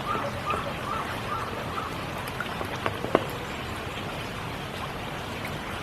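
Steady spring rain falling, with scattered drops landing close by and one sharper drip about three seconds in. For the first second and a half a frog gives short, evenly repeated calls, two or three a second.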